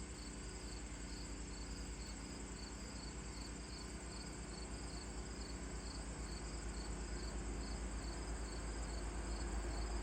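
Insects chirping in a steady, even pulse, a few chirps a second.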